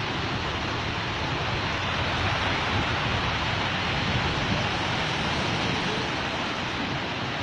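Steady storm noise of wind and rough water, with wind buffeting the microphone in a low rumble.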